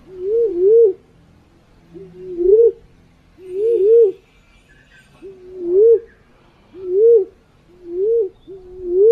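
Wild pigeon calls used as a hunting lure: a series of low, rising coos, about one a second, several given as a quick double coo.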